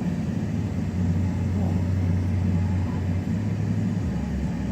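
Steady low rumble of a car; its hum drops lower near the end.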